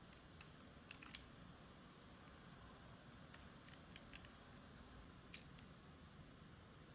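Near silence: quiet room tone with a few faint clicks and taps, a pair about a second in and a few more later.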